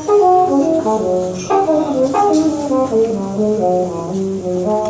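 Jazz trumpet playing a slow melodic introduction, with other held notes sounding beneath it.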